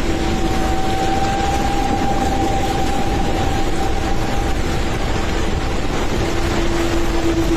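Rushing floodwater from a flash-flooded river, a loud steady roar, with two steady tones running over it for much of the time.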